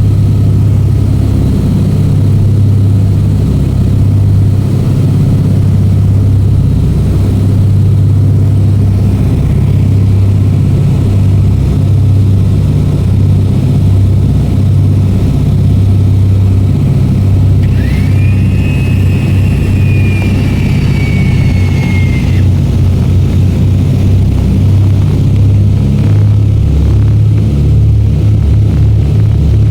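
Propeller aircraft engines running steadily at cruise, heard as a loud, low drone from inside the cabin. Just past the middle a thin high whistle rises, then slowly falls for about four seconds.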